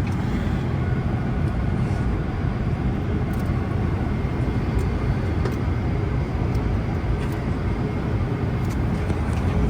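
Steady cabin noise of a Boeing 777-300ER in flight: an even, low roar of airflow and engines heard from inside the cabin, with a click at the very start.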